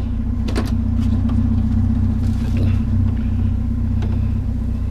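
A vehicle engine idling with a steady low hum, and a short knock about half a second in.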